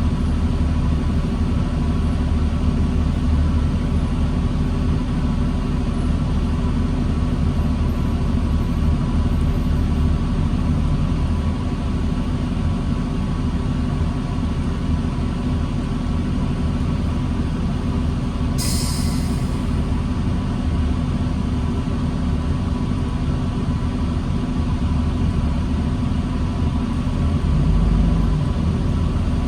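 2009 New Flyer D40LFR transit bus's diesel engine running at low speed in stop-and-go traffic, a steady low rumble. A short burst of air hiss comes about two-thirds of the way in, and the engine note swells briefly near the end.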